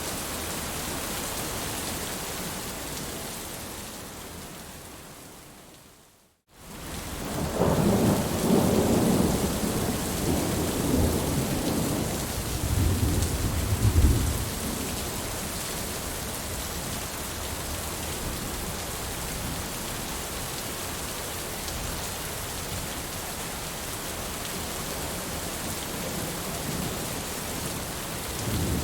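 Steady rain that fades away to a moment of silence about six seconds in and then returns. Thunder rumbles from about seven seconds in to about fifteen, loudest just before it dies away, and steady rain continues after it.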